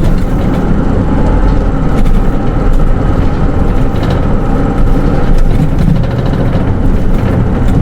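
Interior running sound of a Hino Rainbow II SDG-KR290J1 city bus with automatic transmission: a steady diesel engine drone under road and cabin noise, heard from inside the passenger cabin.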